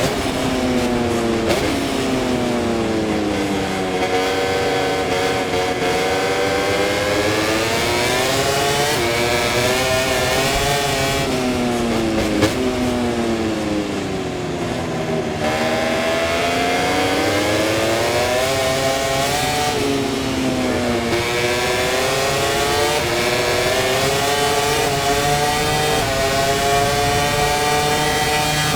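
Aprilia RS-GP MotoGP bike's V4 engine at racing speed, heard from the onboard camera: the revs climb and fall again and again, rising as it accelerates through the gears and dropping under braking and downshifts.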